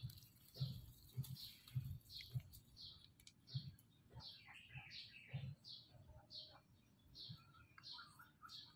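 A small bird repeating a short high chirp about twice a second, with a few other bird calls. Soft low thumps and rustles of handling noise come in irregularly, as the hand works over the dog's fur close to the microphone.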